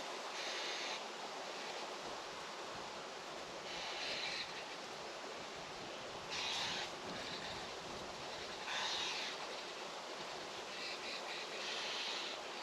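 Outdoor farm ambience: a steady rush of wind, with short high-pitched calls about every two to three seconds.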